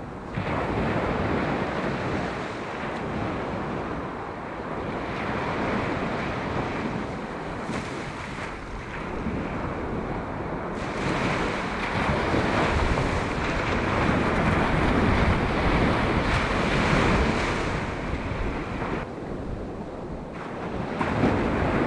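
Sea waves breaking and washing on the beach, rising and falling in surges, with wind buffeting the microphone.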